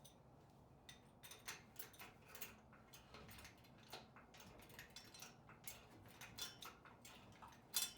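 Faint, irregular metallic clicks and ticks, about a dozen, with one sharper click near the end: hardware and the hoist setup shifting as the engine is drawn up out of the truck.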